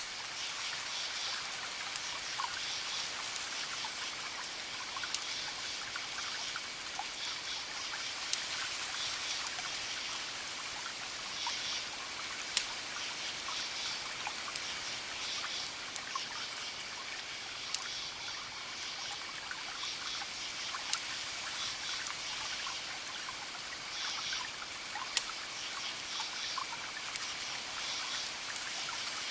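Campfire crackling, with sharp pops every few seconds, over crickets chirping in repeated high pulses and a steady hiss of ocean waves breaking in the distance.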